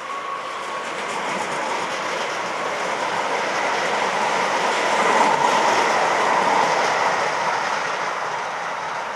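Tyne and Wear Metro electric trains running past on the tracks, the noise building to a peak about five seconds in and then easing off.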